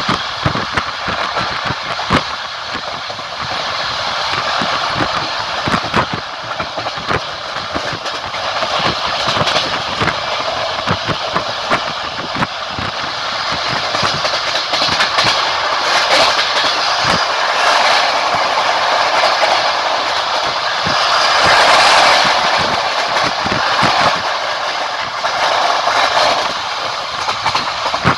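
Passenger train carriage wheels clattering over rail joints at speed: a steady rushing rumble with irregular sharp clicks. It swells louder about two-thirds of the way through.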